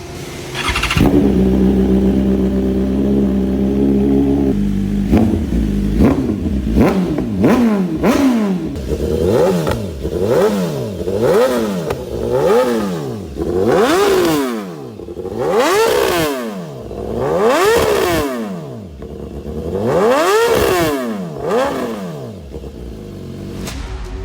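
Motorcycle engine through a Lougan-RS titanium aftermarket exhaust, idling briefly and then revved over and over. It starts with a quick run of short throttle blips, then several longer, higher revs about every two seconds, each rising and falling back.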